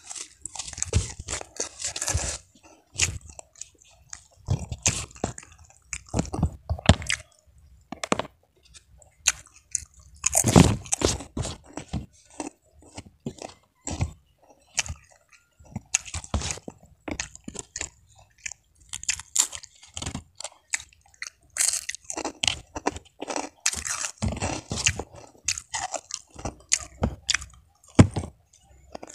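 A person chewing and crunching crisp food in irregular bites, with sharp crackles of crunchy fried food and crackers breaking between the teeth.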